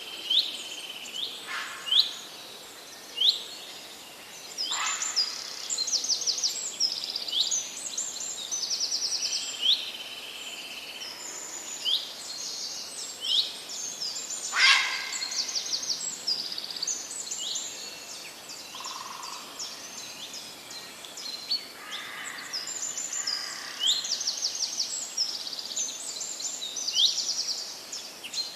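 Several songbirds singing and calling together: many short rising whistles and rapid trills overlapping, over a steady background hiss.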